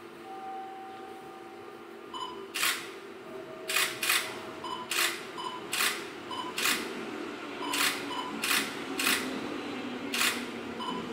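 205 series 3100-subseries electric train running past, its wheels clacking over rail joints in a run of sharp clicks, often in pairs, starting about two seconds in, over a steady rumble.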